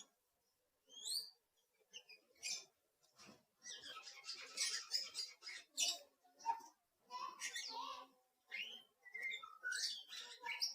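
Bird chirping: a quick run of short chirps that glide up and down in pitch, sparse at first and then coming thick and fast for most of the rest.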